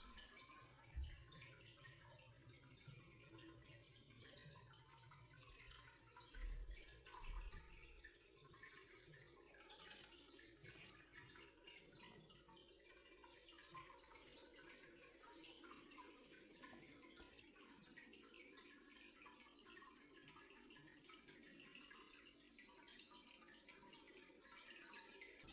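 Near silence: faint room tone with light scattered ticks, and a few soft low thumps about a second in and again around seven seconds.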